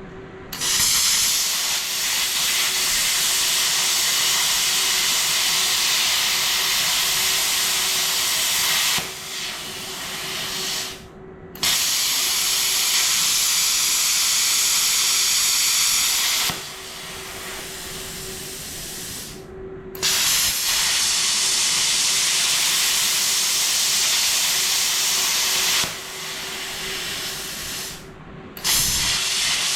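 Plasma cutter cutting steel: a loud, steady hiss of the cutting arc in four runs of several seconds each. Each run falls away to a quieter hiss of air before a short silence, with a steady hum underneath.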